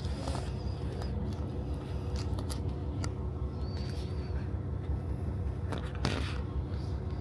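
Steady low hum of a KiHa 40 diesel railcar's engine, with a few light clicks and a short rustle about six seconds in.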